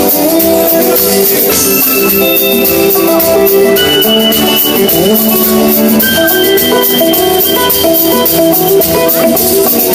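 Live rock band playing an instrumental passage between sung lines: sustained melodic notes over drums and cymbals.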